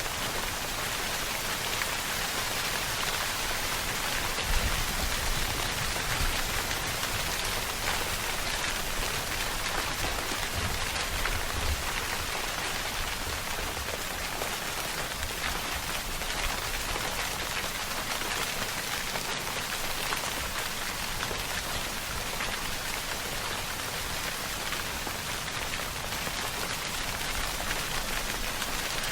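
Steady rainfall, a dense even hiss of drops pattering on a surface, with a faint low rumble now and then.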